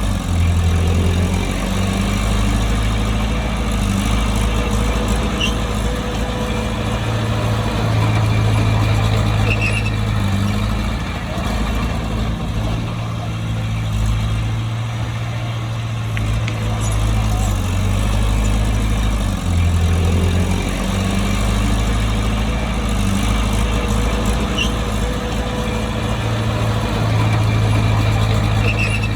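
Heavy diesel engine of a bulldozer running steadily while working. Its note shifts briefly about a second in and again about twenty seconds in.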